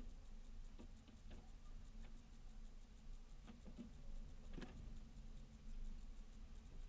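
Faint scattered taps and clicks of small birds pecking and hopping at seeds on a bird feeder, the loudest about four and a half seconds in, over a low steady hum.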